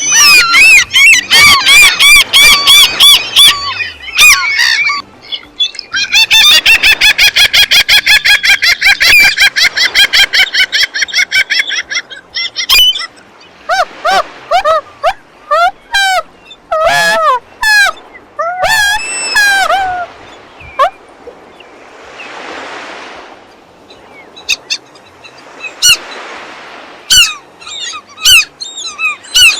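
Gulls calling: loud repeated cries, a fast run of short calls in the first half, then scattered single calls that fall in pitch. In the last third the calls thin out between soft rushing swells.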